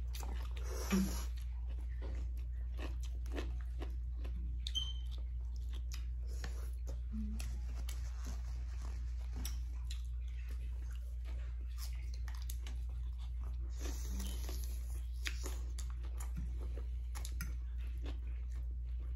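Close-up eating sounds: chewing and crunching of food, with many small scattered clicks and mouth noises.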